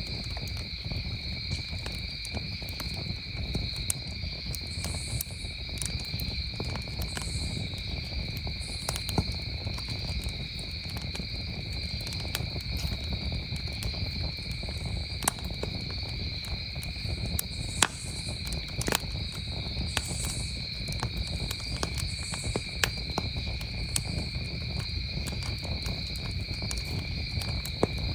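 Campfire crackling, with irregular sharp pops and snaps and a low rumble of burning wood. Under it, a steady chorus of crickets trills without a break.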